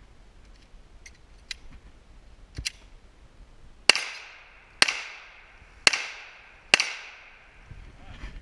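Four pistol shots fired close by, roughly a second apart, each a sharp crack with a short ringing tail. A few much fainter cracks come a couple of seconds before them.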